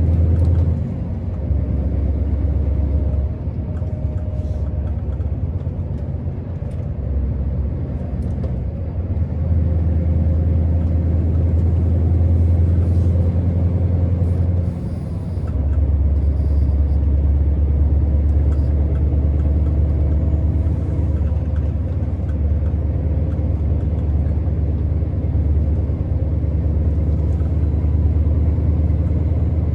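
Scania R650 V8 truck engine running on the move, a deep low drone that rises and falls as the load changes, with a short dip about fifteen seconds in.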